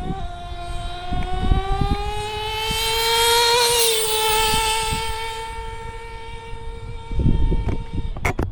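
JL MAX .28 nitro engine in a Traxxas T-Maxx RC truck screaming at full throttle on a speed run. Its high pitch climbs as the truck accelerates and is loudest about three and a half seconds in. It then holds a steady high note and stops abruptly near the end.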